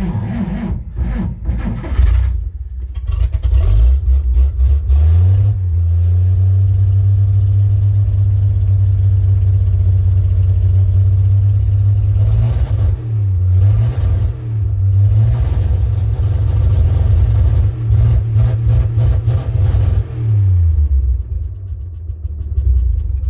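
Old truck engine starting cold, with uneven firing at first, then revved up and held at high rpm with two brief dips before dropping back to idle near the end.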